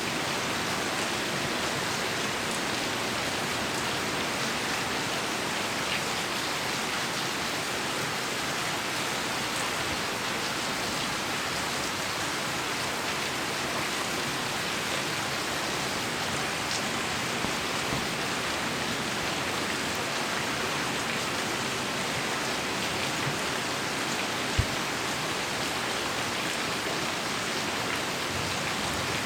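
Heavy rain falling steadily, an even hiss of drops, with one sharp tap near the end.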